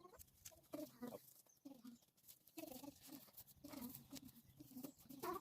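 Faint, repeated bleating of farm animals: a series of short calls, one after another.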